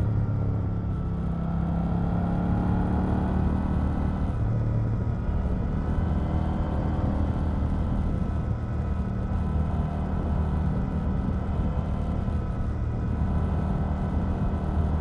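KTM 890 Duke R's parallel-twin engine running steadily under way, its note rising a little about a second in and shifting again about four and a half seconds in.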